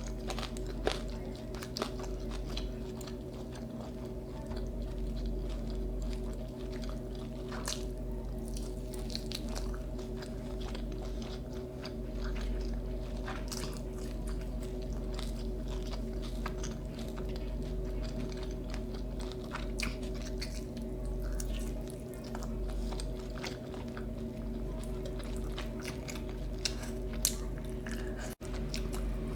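Close-up eating sounds: a person biting and chewing food with the hands, with scattered crunches and wet, sticky mouth clicks, over a steady low hum.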